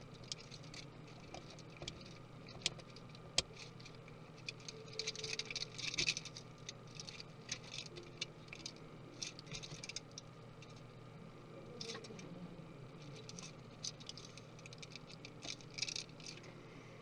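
Small hand tools and laptop parts being handled during disassembly: scattered light clicks and taps, with short bursts of scraping and rattling about a third of the way in, near the middle and near the end.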